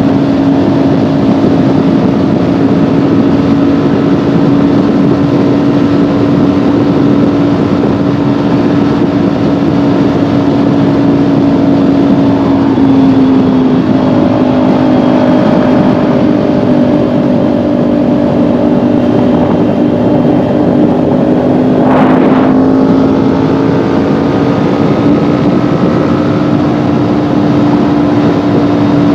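Kawasaki Ninja 400's parallel-twin engine cruising at fairly steady revs, heard from the rider's seat over a steady rush of wind. The revs dip slightly about 13 seconds in and climb slowly back, and a brief sharp click comes about 22 seconds in.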